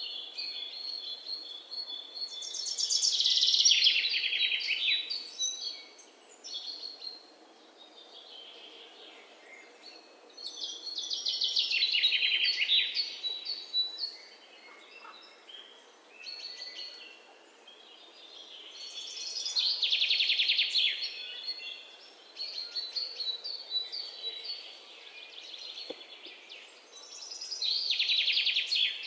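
Songbirds singing: one bird repeats a loud, rapid trilled phrase that falls in pitch, about every eight seconds (four times), while other birds chirp more softly in between.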